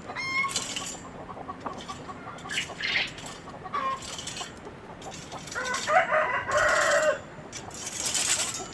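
Chickens clucking, with a rooster crowing once for about a second and a half a little under six seconds in. Short rustling or scratching noises come and go between the calls.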